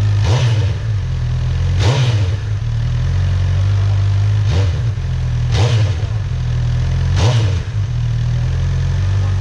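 Honda CB1000R's inline-four engine idling, with five short throttle blips that rev it up and let it drop straight back to idle.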